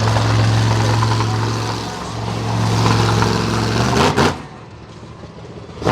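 Monster truck engine running loud and steady, then a sharp bang about four seconds in, after which the engine sound drops away. Another short bang comes near the end.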